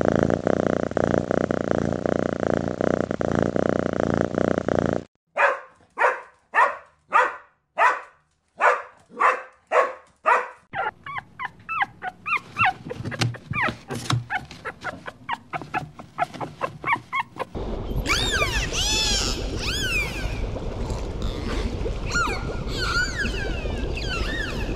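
A cat purring steadily for about five seconds; then a small dog barking, about two sharp barks a second, turning to quicker, softer yips near the middle; then, about eighteen seconds in, dolphins whistling underwater in rising and falling glides over a hiss of clicks.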